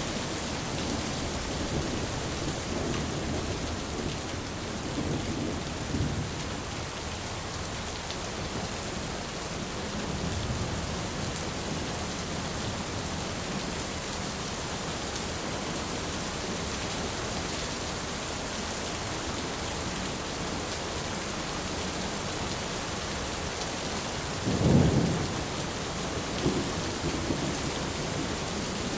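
Steady heavy rain hissing, with low rolls of thunder rumbling under it; a louder, sharper thunderclap breaks about three-quarters of the way through.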